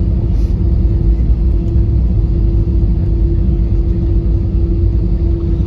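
Cabin noise inside an Airbus A320 after landing: a steady low rumble with a constant hum.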